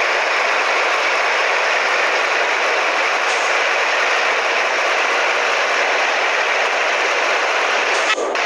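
Scania 113H truck's straight-six diesel running steadily through a straight-piped (open) exhaust, a loud even drone with a brief dip near the end.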